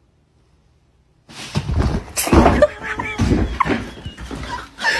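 Pets scuffling: a run of thumps and rustling with short cries, starting about a second in after near silence.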